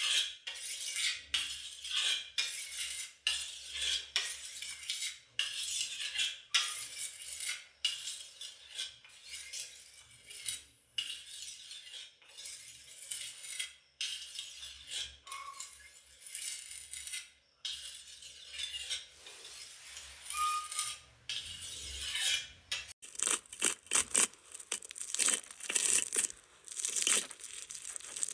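Knife being sharpened, its blade scraped in repeated strokes of about one a second with a high metallic rasp. About three-quarters of the way through, the strokes give way to quicker, sharper scraping and crackling.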